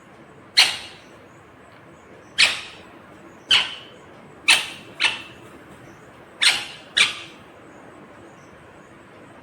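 Ringneck parrot giving seven short, sharp, loud calls, some of them in quick pairs.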